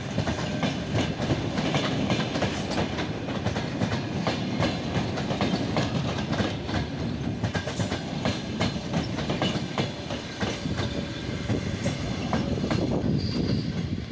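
Passenger coaches of an express train rolling past, wheels clattering over the rail joints in a continuous run of clicks and rumble.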